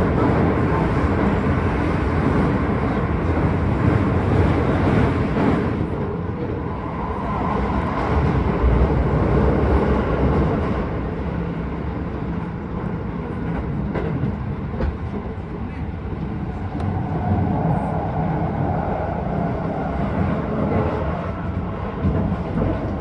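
Keisei 3000 series electric train running at speed, heard from inside the car: a steady rumble of wheels on rail with a few clicks from the track. The high hiss drops about six seconds in.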